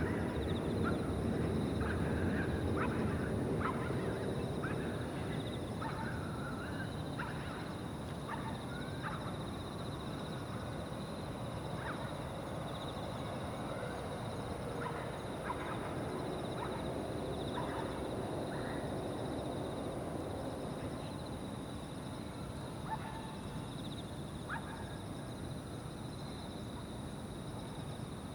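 Evening riverside ambience: insects chirring steadily in two high bands under a low, even rumble that eases after the first few seconds. Over this come many short bird calls, most of them in the first half.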